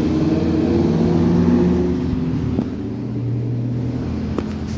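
Car engine running close by with a low, steady hum, louder for the first two seconds and then easing off; a few light clicks near the end.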